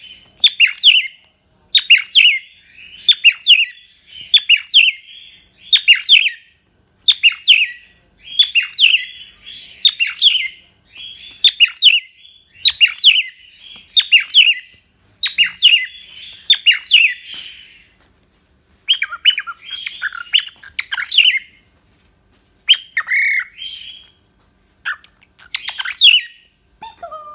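Cockatiel giving loud, repeated chirping calls, a short phrase about once a second, with a couple of brief pauses towards the end.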